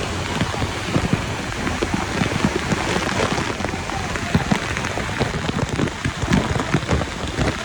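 Waterfall close up: the steady rush of falling water, with its spray pattering down like heavy rain.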